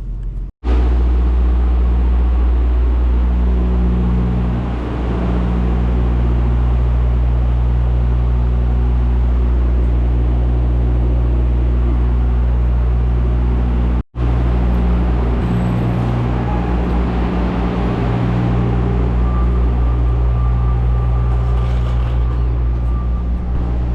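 A vehicle engine running steadily with a low hum. The sound breaks off for an instant twice.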